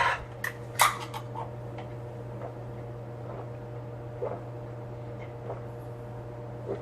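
A can of Natural Light beer being shotgunned: a few small sharp clicks from the can in the first second and a half, then faint scattered gulps, over a steady low hum.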